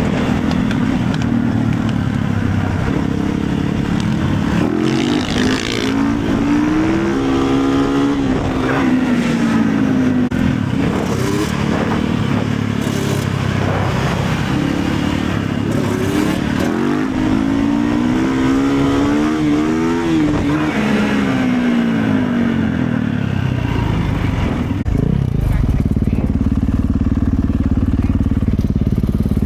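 Motorcycle engine running on the move, its pitch climbing and dropping several times as it accelerates and changes gear.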